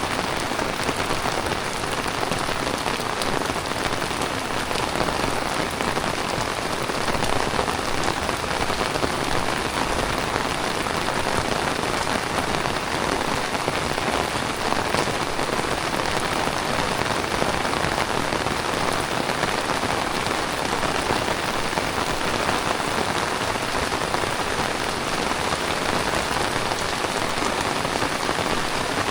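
Heavy tropical rain falling steadily on the ground and surfaces, a dense, even hiss.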